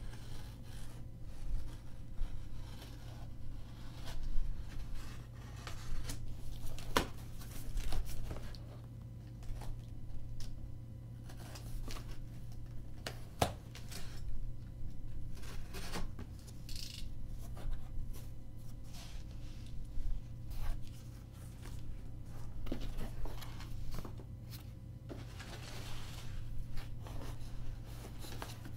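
A cardboard shipping box being opened by hand: packing tape being cut and torn, with cardboard rubbing and scraping and scattered sharp clicks.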